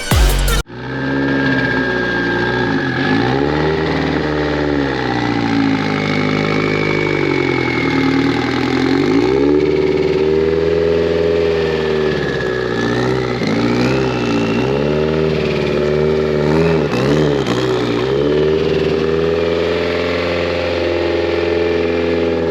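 Subaru BRZ's flat-four boxer engine running through an Invidia N1 cat-back exhaust, its revs rising and falling again and again, with a thin high whine wavering above. Background music cuts off about half a second in.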